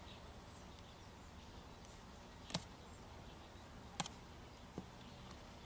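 Three short, sharp clicks over a faint steady background: two a second and a half apart, a softer one just under a second after.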